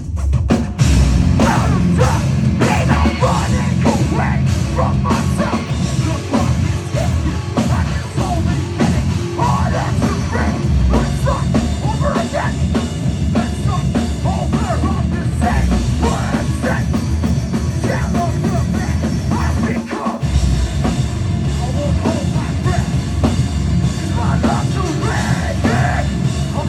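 Heavy metal band playing live at full volume, drums and distorted guitars with shouted vocals, dipping briefly about twenty seconds in.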